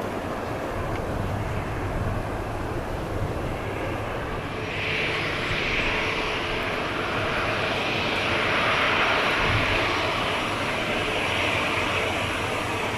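Airbus A330-300 twin-jet airliner passing at close range, its jet engine noise swelling about five seconds in and staying loud through the rest, over a steady low rumble.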